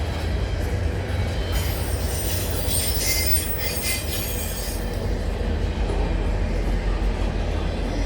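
Cars of a CN intermodal container train rolling past with a steady low rumble. About a second and a half in, the wheels squeal high-pitched for roughly three seconds, then die back to the rumble.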